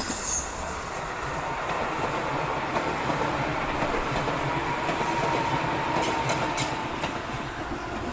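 Running sound of a real Tobu 8000 series electric train under way: a steady rumble with a faint even whine and scattered clicks of the wheels over rail joints, a cluster of them about six to seven seconds in.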